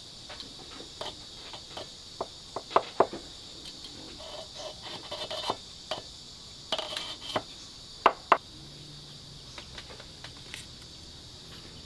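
Steady chirring of crickets or other insects, with scattered light knocks and clatter of things being handled, including a few sharp clicks about 3 and 8 seconds in.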